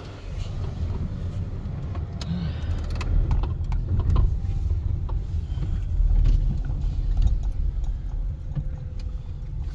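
Car driving, heard from inside the cabin: a steady low road and engine rumble, with a few light clicks and knocks.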